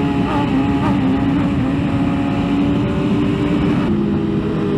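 Yamaha R1M crossplane inline-four, fitted with a full aftermarket exhaust, running at steady revs, its engine note holding one pitch and then shifting about three and again about four seconds in.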